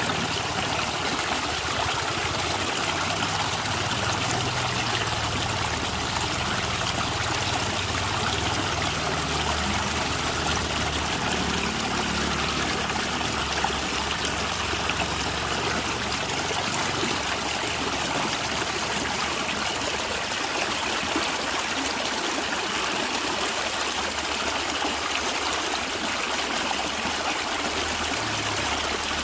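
Natural water flowing and gurgling, a steady trickling stream.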